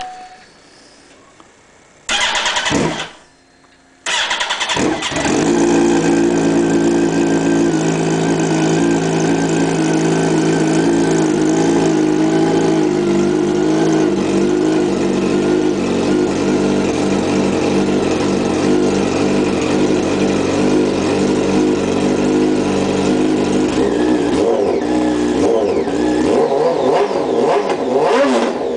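2007 Yamaha R1's inline-four engine running with no exhaust fitted: a short burst about two seconds in that stops, then it starts about four seconds in, flares up, and settles to a steady idle. Near the end it is revved up and down several times.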